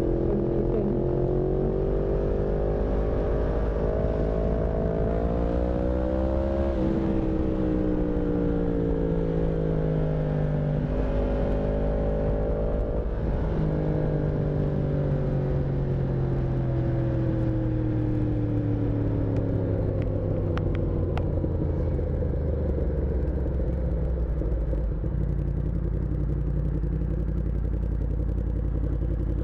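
Yamaha MT-10's crossplane inline-four running through an SC Project exhaust under way: the engine pitch climbs on the throttle for several seconds, drops sharply about seven seconds in and winds down off the throttle. It rises again briefly about thirteen seconds in, then falls away as the bike slows, settling into a low, steady run near the end.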